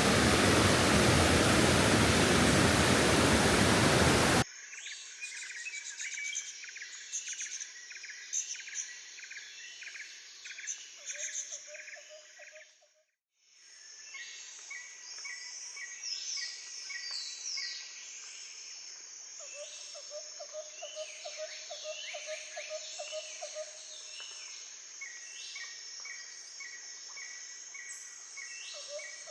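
A loud steady rushing noise for the first few seconds cuts off abruptly. It gives way to rainforest ambience: insects chirping and birds calling, including a repeated pulsed trill several times, with a short break of silence about halfway.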